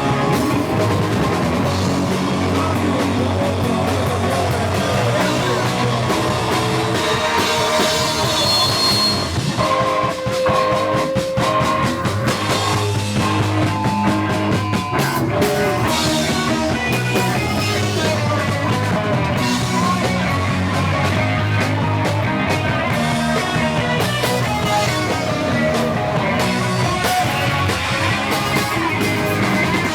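A loud live rock band plays a song on drum kit and electric guitars, at a steady level throughout.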